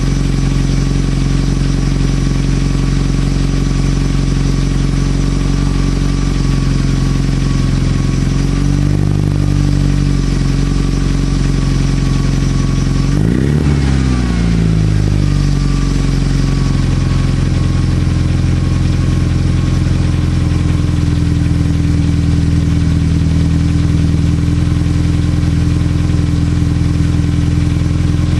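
Mitsubishi Lancer Evolution VIII MR's turbocharged 4G63 inline-four, fitted with a Milltek exhaust and C-Tech manifold, idling steadily. It gives a small throttle blip about nine seconds in, then a quick rev about halfway through that rises and drops straight back to idle.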